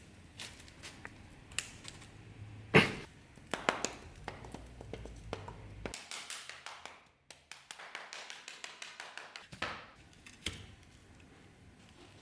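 Hands handling metal and tools on a workbench: scattered taps and small clicks, with one sharp knock about three seconds in.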